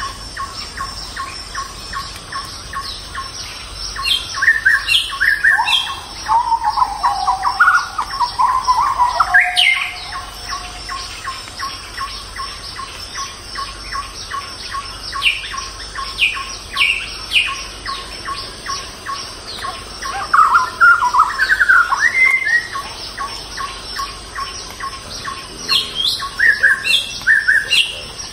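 Forest birds chirping and singing in short bursts: a cluster of chirps about four seconds in, a warbling phrase just after, a run of falling notes in the middle, and more calls near the end. Under them run a steady high-pitched whine and a fast, even ticking.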